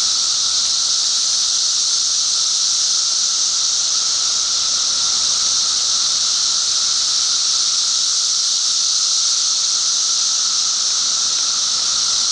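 A dense chorus of periodical cicadas, a loud, steady, unbroken high-pitched drone with a lower hum beneath it, from a mass emergence in the trees.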